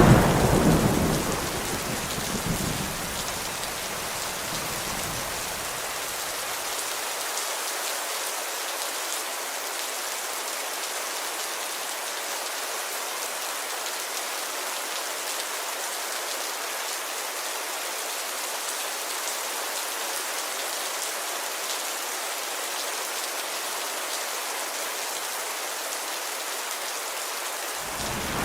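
Steady heavy rain on a window. The low rumble of a thunderclap dies away over the first few seconds, with a smaller roll of thunder about two and a half seconds in.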